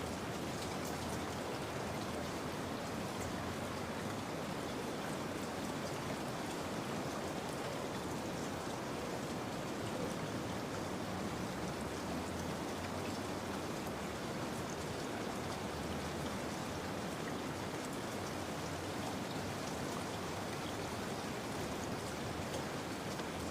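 Steady rain falling, an even patter with scattered drops ticking on a surface.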